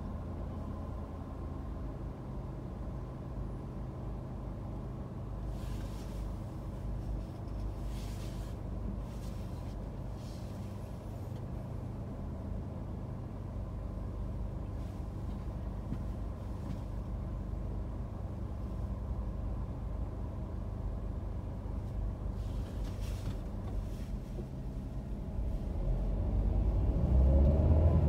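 Car engine idling in stopped traffic, heard from inside the cabin as a steady low rumble, with a few faint brief hisses. Near the end the engine picks up and the rumble grows louder as the car pulls away.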